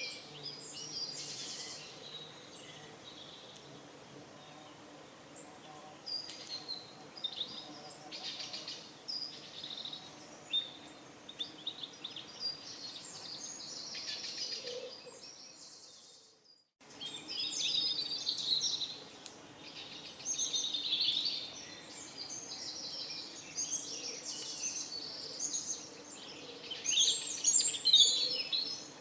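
Many small birds chirping and twittering over a faint steady low hum. The sound cuts out completely for about half a second a little past halfway, then the chirping comes back, busiest near the end.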